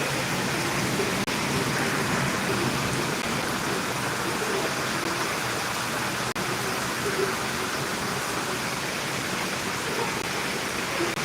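Steady rain falling, an even hiss of water that briefly cuts out for an instant three times.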